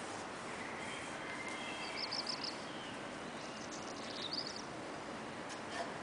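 Outdoor background noise with a small bird giving two short, high, rapid trills, about two seconds in and again about four seconds in.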